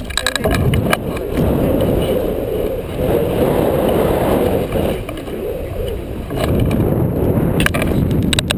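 Wind rushing and buffeting over the camera microphone in paragliding flight, a loud, steady low rumble, with a few short clicks at the start and again near the end.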